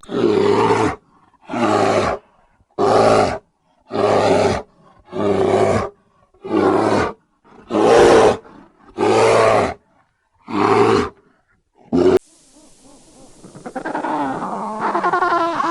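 A large animal giving loud roar-like calls, about nine of them, each lasting around a second with short silent gaps between. Near the end a different, higher animal call begins over a steady hiss.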